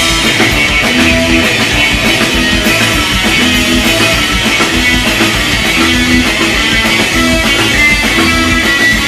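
Pop punk band playing an instrumental break without vocals: electric guitar riff over bass and drums at a steady beat.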